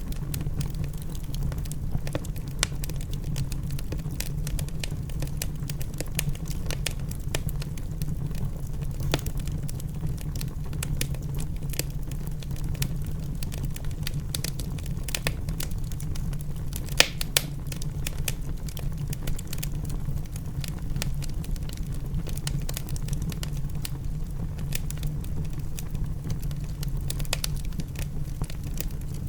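Wood fire crackling in a fireplace, with frequent irregular sharp pops over a steady low rumble; one pop, a little past halfway, is louder than the rest.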